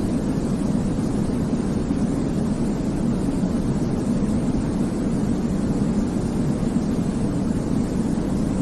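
Continuous baby-sleep white noise: a steady, even rush weighted toward the low end, a deep rumble with little hiss, unchanging throughout.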